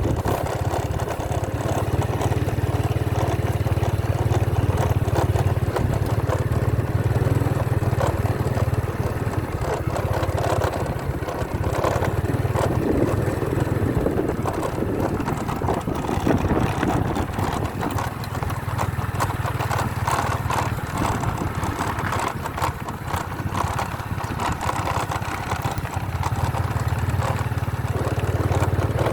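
Motorcycle engine running steadily as the bike is ridden, a continuous low drone with road and riding noise over it.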